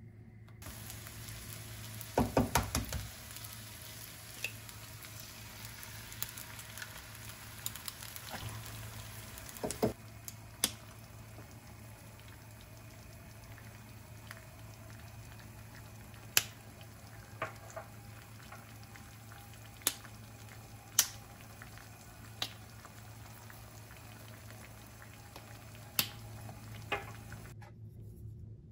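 Cooking in a kitchen: a steady low hum under a sizzling hiss, with scattered sharp clicks and knocks of utensils, the loudest a short clatter about two seconds in.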